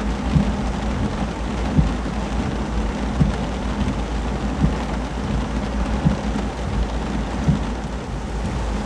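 Heavy thunderstorm rain falling steadily, with a continuous low rumble underneath.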